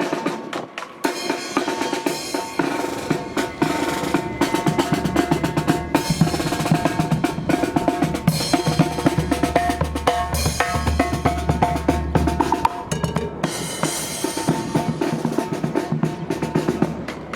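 Marching band's drum line playing rapid snare and bass drum patterns, with brass holding notes over them, in the band's closing fanfare.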